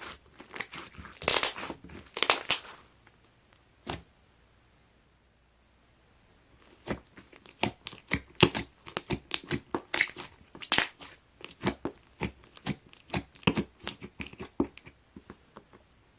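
Clear slime being squeezed and stretched by hand, making crackling squelches and sharp clicking pops. After a couple of seconds' pause, a quick run of pops follows.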